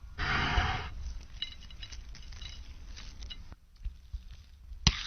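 A brief burst of noise in the first second, followed by a few light clinks of kitchenware.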